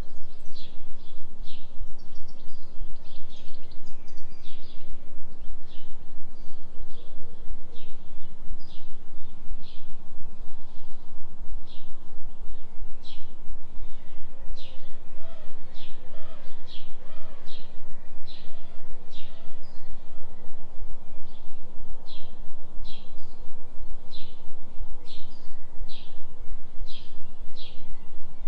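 Low steady tone of a delta binaural beat, pulsing quickly and evenly, under forest ambience with a songbird giving short high chirps over and over, about one or two a second.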